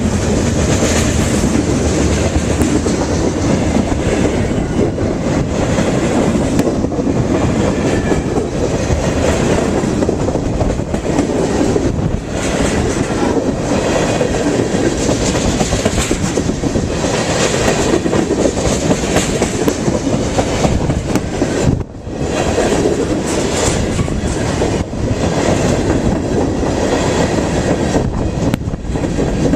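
Freight train cars rolling past, a steady loud noise of steel wheels on rail, dipping briefly about two-thirds of the way through.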